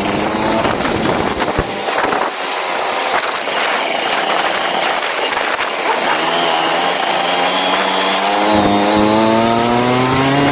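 Go-kart engine under acceleration, its pitch climbing steadily over the last four seconds, over a constant rushing noise.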